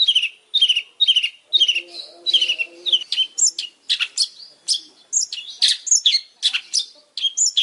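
Long-tailed shrike (pentet) singing: a run of short, sharp repeated notes about two a second, turning into a faster, more varied chatter of higher notes about three seconds in.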